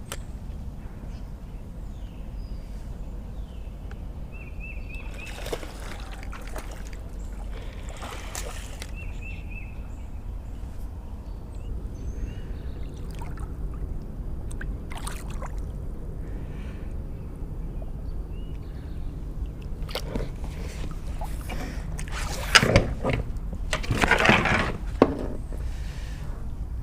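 Water sloshing and trickling as a hooked blue catfish is brought in at the bank, with a few louder splashes near the end, over a steady low rush of moving water.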